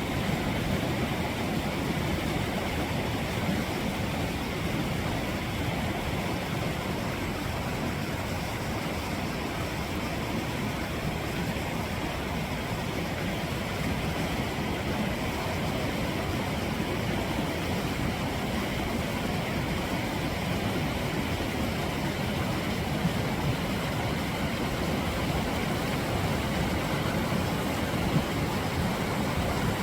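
Mountain stream water rushing and splashing over rocks: a steady, unbroken rush of water.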